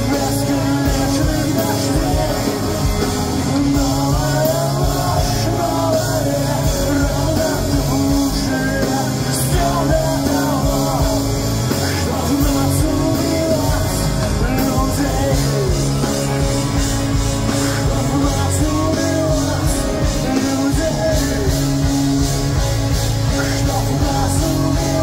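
Live pop-punk rock band playing loud, with electric guitars, bass and drums, and a melodic line or voices wavering over it, recorded from the crowd.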